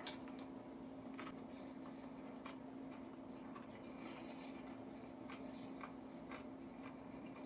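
A person chewing cold, extra-crispy fried chicken with dentures: a crunch as the bite is taken at the start, then faint, irregular crunches about once a second, over a steady low hum.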